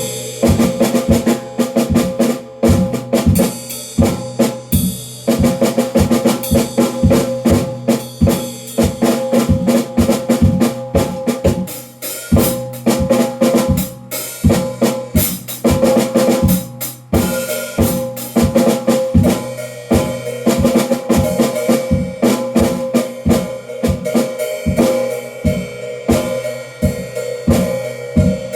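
Drum kit played in a steady, busy groove, with rapid snare and bass drum strikes and rimshots, the drums ringing between hits.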